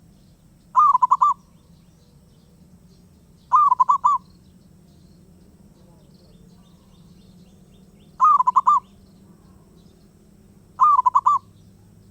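Zebra dove (perkutut) cooing: four short, rapidly pulsed cooing phrases, each about half a second long, a few seconds apart.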